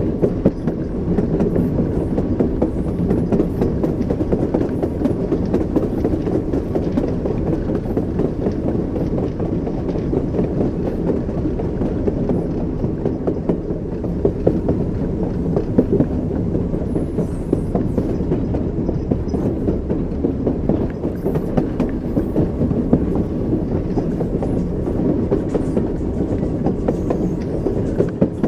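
Train wheels running on rails, a steady rumble under repeated clickety-clack of the wheels over rail joints.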